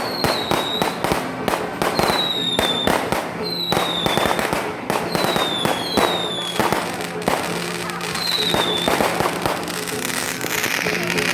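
Fireworks going off in quick succession, dense sharp cracks and bangs mixed with short falling whistles that repeat about every second and a half. The whistles stop about nine seconds in.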